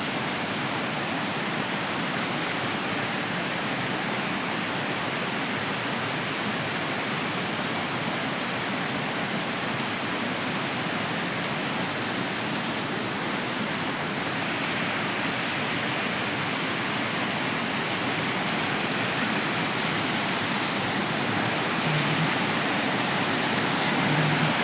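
Steady rush of running water, a swollen stream or waterfall in monsoon flow, getting a little louder near the end.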